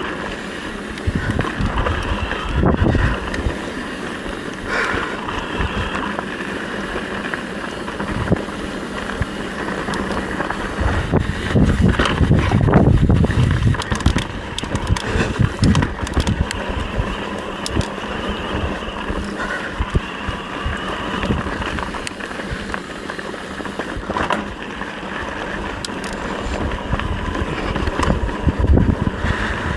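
Wind rushing over the microphone while on the move, with a rough rumble that surges twice, briefly near the start and longer around the middle.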